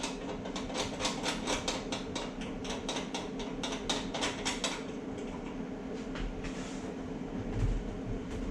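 A rapid, even series of clicks, about four or five a second, as the knob on the back of a Globe commercial meat slicer is twisted off. The clicks then thin out to a few handling knocks and a low thump near the end, over a steady hum.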